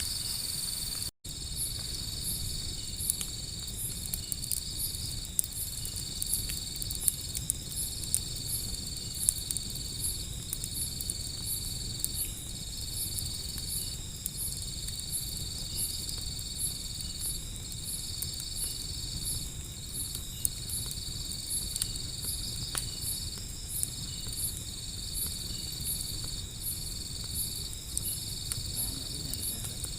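Crickets and other insects trilling steadily: one high continuous trill broken by brief gaps every couple of seconds and a second, higher call pulsing evenly. Under it runs a low rumble with occasional sharp crackles from the wood fire. The sound drops out for an instant about a second in.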